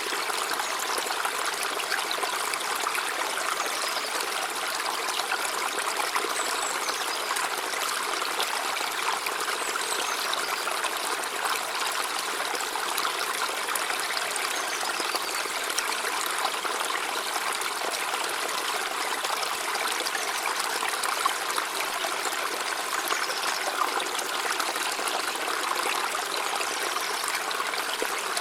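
River water flowing steadily over stones, an even rushing babble with small splashes throughout.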